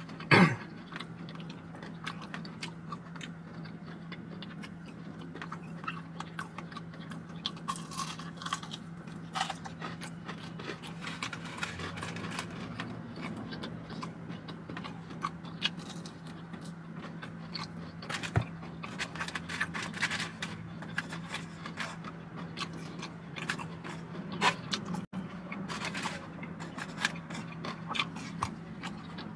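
Close-up chewing and crunching while biting into a fried chicken wing drumstick, with many small crackles and wet mouth sounds and one loud crunch just after the start. A steady low hum runs underneath.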